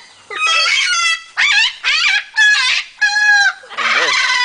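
A parrot making a quick run of loud, short calls, one after another, each sliding up and down in pitch.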